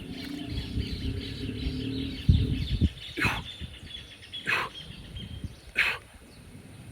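Outdoor bird calls, short and repeated about once every second and a half, over a low rumble that swells briefly just over two seconds in.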